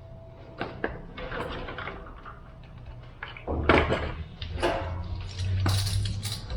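Clinks and knocks of a metal tool being handled at the block. About three and a half seconds in, a drill-driven cylinder hone starts spinning in the bore with a steady low hum and scraping.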